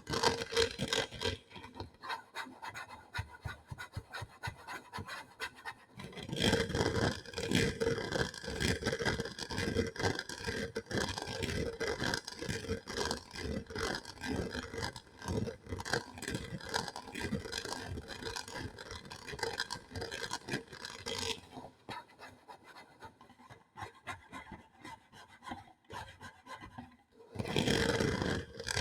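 ASMR trigger sounds: rapid, dense scratching and scraping on a surface. They are softer at first, louder from about six seconds in, quieter again after about twenty-one seconds, and loud once more near the end.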